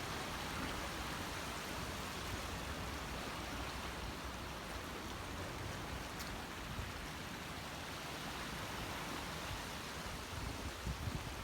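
Steady rushing wash of sea water, with a few low thumps near the end.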